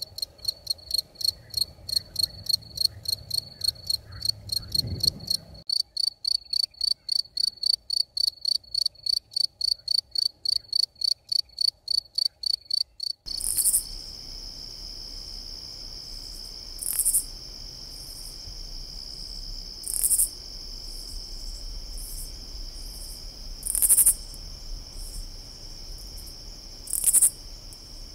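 Field cricket chirping in a steady, regular train of high chirps, about three a second. About thirteen seconds in it gives way to a katydid's continuous high buzzing trill, broken every three to four seconds by a louder rasping call.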